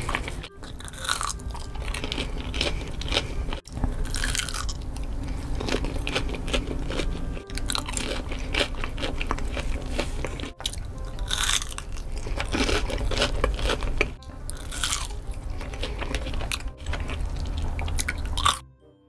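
Close-miked eating: crunchy bites and chewing. It breaks off briefly every few seconds and stops abruptly near the end.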